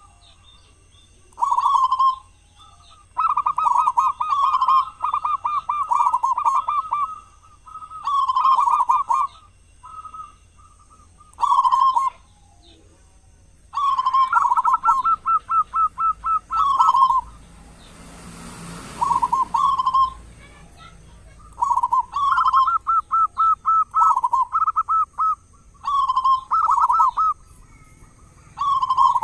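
Zebra dove cooing in repeated phrases every few seconds: short coos and longer rapid, stuttering trills. A brief hiss of noise about two-thirds of the way through.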